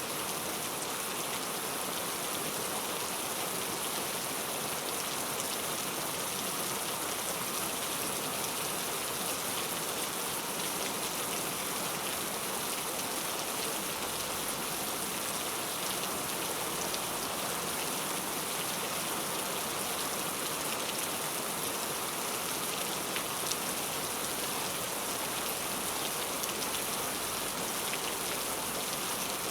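Heavy, steady rain, a dense hiss of drops with faint scattered patters.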